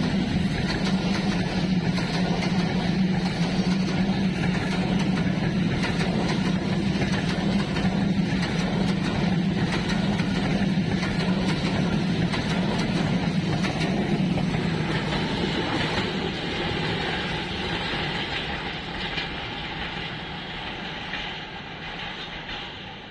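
Rupsha Express passenger train running past with a steady rumble and clatter of wheels on rails. The sound stays loud for most of the stretch, then fades away over the last several seconds as the train recedes.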